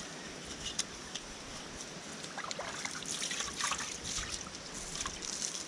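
Water splashing and trickling as something is washed by hand in river water, with small knocks and clicks; the splashing grows busier about halfway through.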